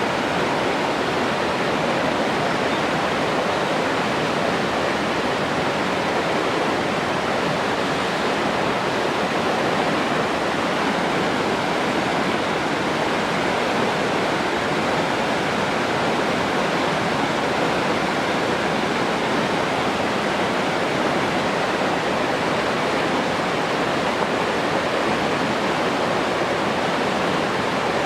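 Steady rushing of running water, an even, unbroken wash of sound that doesn't change.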